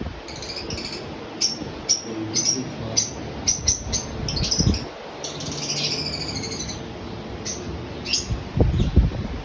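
Small aviary birds chirping, with many short, high calls repeated throughout and a quick flurry of notes around the middle. A few low thuds come near the end.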